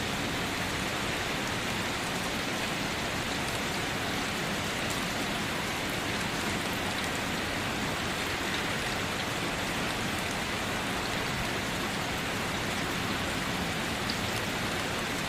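Steady, even rain falling, a dense continuous patter of drops without pause.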